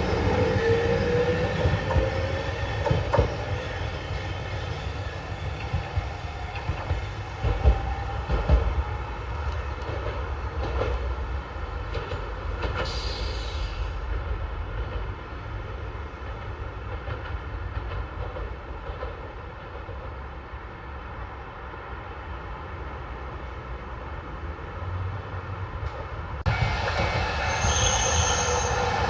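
Hankai Tramway streetcar running on its rails. A rising whine comes at the start, then a few sharp knocks as the wheels cross rail joints and a brief high squeal about 13 seconds in. Near the end the sound changes suddenly to a louder stretch with high steady squealing tones.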